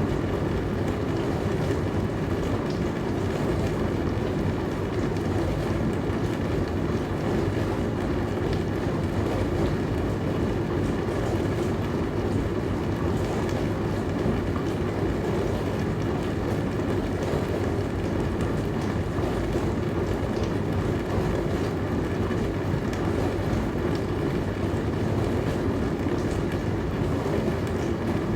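Dishwasher running: a steady, even rushing noise that does not change or break.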